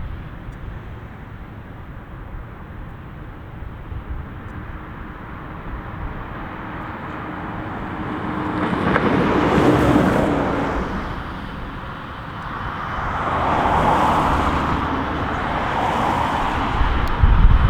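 Jet engine noise from a Boeing 777-300ER's two GE90 turbofans on its departure. A low rumble swells to a peak about ten seconds in, eases off, then builds again and stays loud toward the end.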